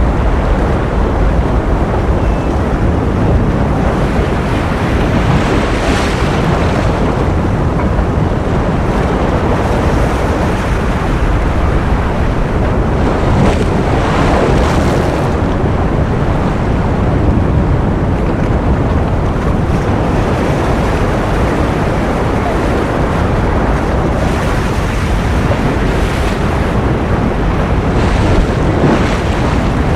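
Ocean surf: a steady, loud wash of waves with no gaps, brightening in a few brief swells as waves break.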